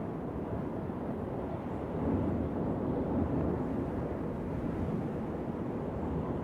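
Steady low wind, a deep rushing sound with no whistle, swelling slightly about two seconds in.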